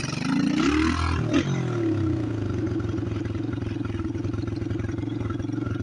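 Chinese pit bike engine revved briefly about a second in, the pitch rising and falling with a sharp knock, then running steadily at a low speed.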